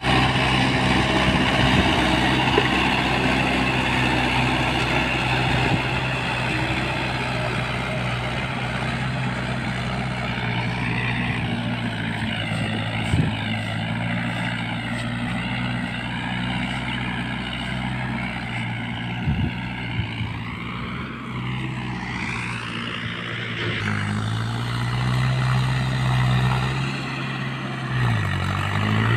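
Mahindra tractor's diesel engine running steadily, its pitch stepping up about two-thirds of the way through and dipping briefly near the end.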